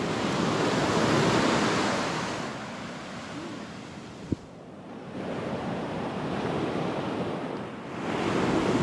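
Ocean surf breaking on the beach, swelling and fading in waves, with a single sharp click about halfway through.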